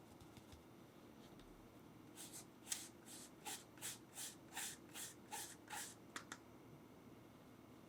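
Hand work in baking: a run of about ten short swishing strokes, roughly three a second, then two quick clicks.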